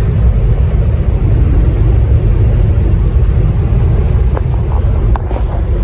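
Steady, loud low rumble, with a few faint clicks near the end.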